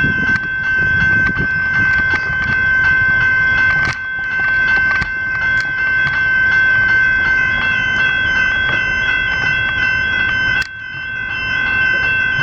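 Level crossing's General Signals electronic bells ringing steadily in a high, multi-tone chime, over the low rumble of a passing suburban train.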